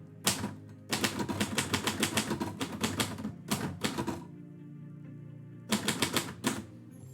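Manual typewriter being typed on: a fast run of key strikes for about three seconds, then a pause and a second short burst of keystrokes near the end.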